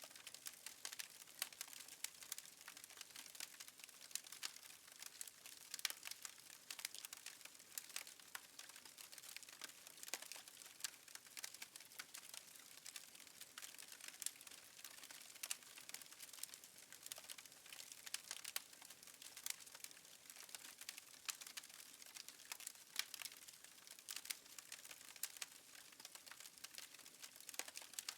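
Faint, irregular crackling and popping of a wood fire burning in a fireplace, over a soft steady hiss.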